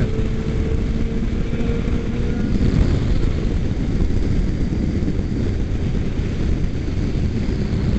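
Steady wind rush and engine drone of a motorcycle riding at freeway speed, heard from the rider's own bike. A faint steady hum fades out about two and a half seconds in.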